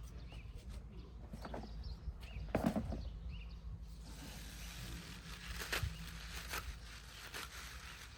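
Outdoor ambience: scattered rustles and clicks, a few faint bird chirps and a steady low rumble.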